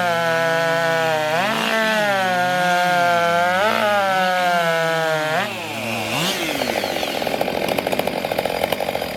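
Racing chainsaw running at full speed, its pitch dipping briefly three times as it loads up. About five and a half seconds in the engine drops off, and a lower, rattly engine sound carries on until near the end.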